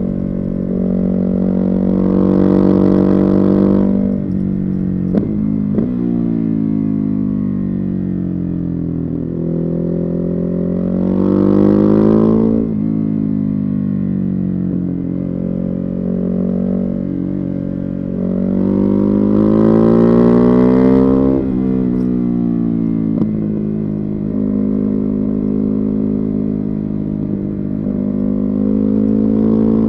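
Ducati Hypermotard 950's Testastretta 11° L-twin engine through a Termignoni exhaust, heard on board while riding. The engine note climbs under throttle and then falls away as the throttle closes, three times over, with two short cracks about five seconds in.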